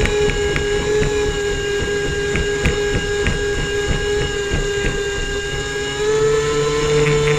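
Airboat engine and propeller running with a steady drone. About six seconds in, the pitch rises and the sound gets louder.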